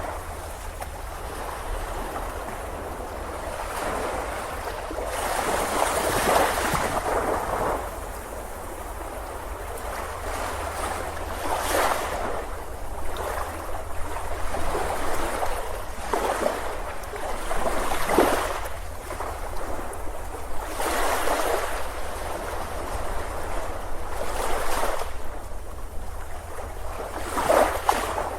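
Sea waves breaking on a beach: a continuous wash of surf that swells and recedes, with a stronger wave surging in every few seconds, over a steady low rumble.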